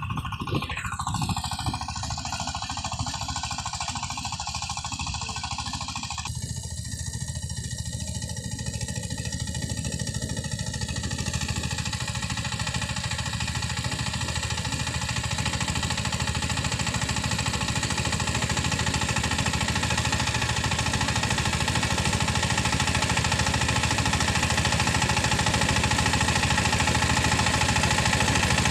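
Diesel engine of a power tiller running steadily with a hard, rapid chugging, the tone changing abruptly about six seconds in and growing slowly louder toward the end.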